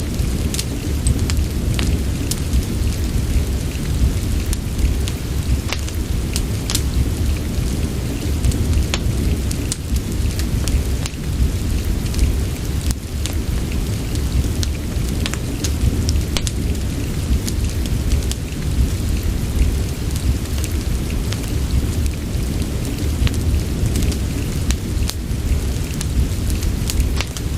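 Steady rain with a deep, continuous low rumble, mixed with a fireplace's wood fire crackling in scattered sharp pops.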